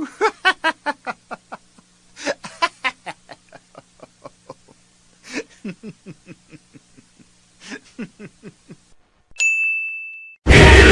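Meme sound effects in sequence: a long run of short, rhythmic laughter bursts that fade out over several seconds. Then comes a steady high beep of about a second, and loud music cuts in near the end.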